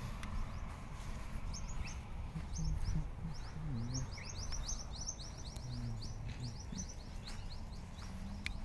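Small birds chirping in a quick, busy run of short, high chirps, several a second, over a low steady background rumble.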